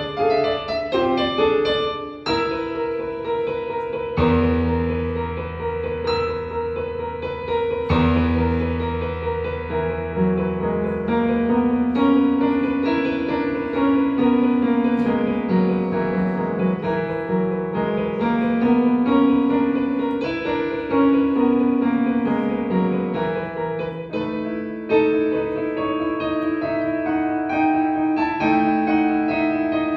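Solo piano playing, with deep bass notes held early on and a melodic line rising and falling in the middle register.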